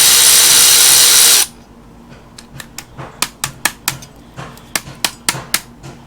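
Power ratchet running as it spins off the 8 mm nut on the starter signal wire, cutting off abruptly about a second and a half in. Then a string of light clicks as the small parts are handled.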